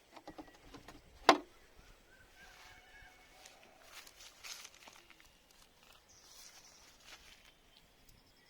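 Quiet outdoor background with one sharp click about a second in, the loudest sound, and a few faint knocks and ticks around it.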